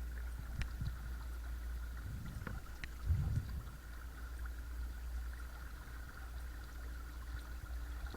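Watersnake T24 12-volt electric trolling motor running steadily with a faint thin whine, with water moving along the kayak hull and a few small ticks and splashes.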